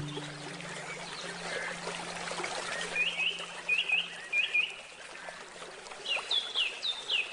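Forest stream trickling and splashing steadily, with a bird repeating short hooked chirps, a run of about five around three seconds in and another run near the end. A low handpan note fades out during the first few seconds.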